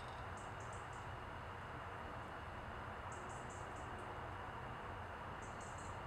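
Steady low background rumble and hiss, with three brief clusters of high, thin bird chirps of three or four quick notes each, about half a second in, about three seconds in and near the end.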